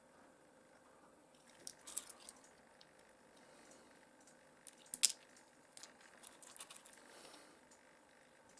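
Small pieces of rough opal being handled, with scattered light clicks and taps of stone as they are picked up and set down on a plate. The loudest click comes about five seconds in, with small clusters of clicks before and after.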